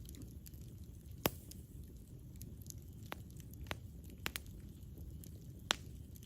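Campfire burning: the wood crackling with scattered sharp pops, the loudest about a second in and another near the end, over a low steady rumble of the flames.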